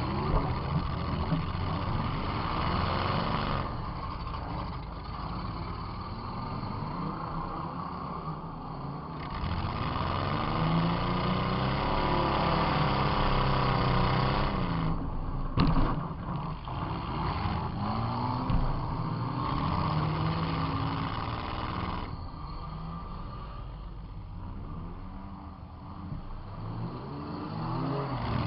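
Demolition derby car's engine heard from inside the car, revving up and down as it is driven, with a sharp loud bang from a hit about fifteen and a half seconds in.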